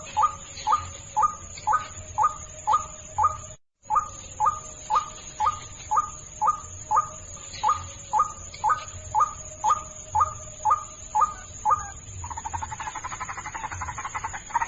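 White-breasted waterhen (ruak-ruak) calling: a short note repeated about twice a second, with a brief gap near the start. About twelve seconds in, the calls change to a fast, continuous rattling croak.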